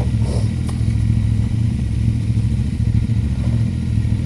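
Adventure motorcycle engine idling steadily, with a faint click under a second in.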